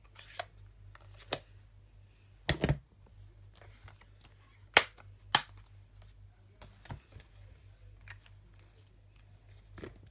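Scattered sharp clicks and taps of craft supplies being handled and set down on a work surface, about seven in all, with quiet between.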